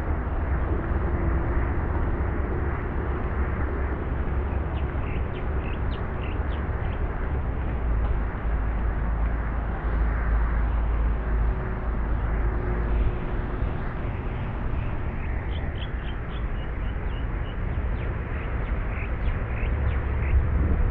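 Outdoor ambience: a steady low rumble under a broad hiss, with short high bird chirps in clusters about five seconds in and again through the last third.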